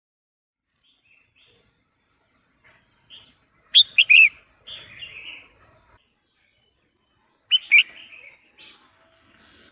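Female red-whiskered bulbul calling: a loud cluster of short, sharp chattering notes about four seconds in, then softer chatter, and a second loud cluster near the end.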